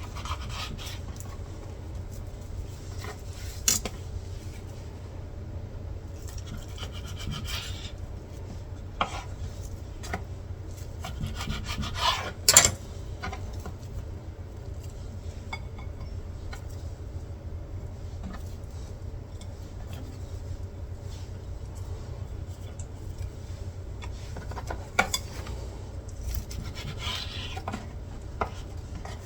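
Kitchen food-preparation sounds: scattered scrapes and clicks of utensils on dishes and a board over a steady low hum, with one sharper knock about halfway through.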